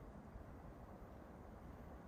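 Near silence: a faint, steady low rumble of forest ambience, with no distinct sound standing out.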